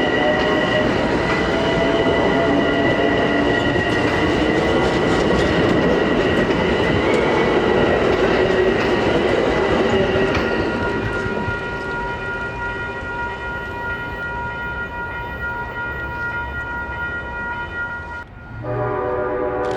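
Metro-North train led by GE P32AC-DM locomotives passing close by, with loud rolling and clattering wheel noise that eases off about halfway through. Near the end, after a sudden break, a multi-tone train horn sounds.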